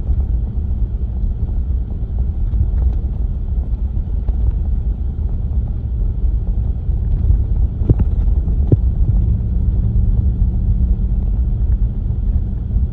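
A car driving: a steady low rumble of engine and road noise, with two faint knocks about eight seconds in.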